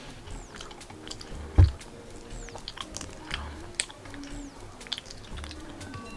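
Close-miked chewing and biting of food, with wet mouth clicks and one sharper, louder knock about one and a half seconds in.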